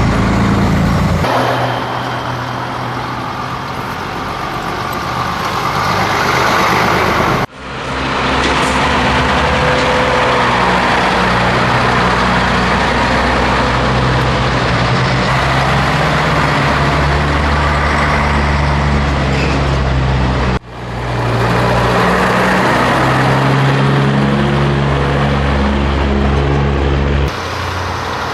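Scania truck's diesel engine running on the road, its pitch stepping up and down as it changes gear. The sound cuts off abruptly and comes back twice, about seven and about twenty seconds in.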